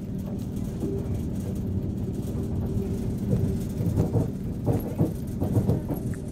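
Railway train running: a steady low rumble with a faint hum, joined about three seconds in by a run of irregular knocks and clunks.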